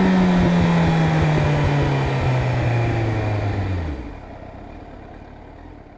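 Inline-four motorcycle engine slowing down, its note falling steadily, then cutting out abruptly about four seconds in. A faint hiss remains and fades away.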